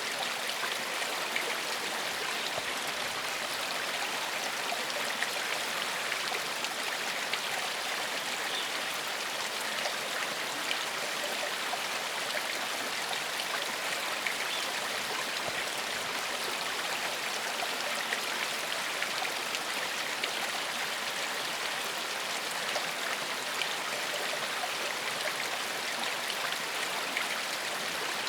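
Small forest stream flowing steadily over stones, an even rushing babble with small splashes and trickles.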